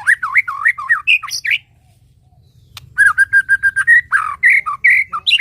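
White-rumped shama singing: two phrases of loud, rapidly varied whistles, separated by a pause of about a second. The second phrase holds a quick run of repeated notes on one pitch.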